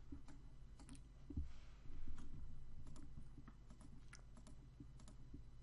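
Scattered light clicks of a computer mouse selecting objects, a dozen or so at uneven intervals, over a faint steady low hum.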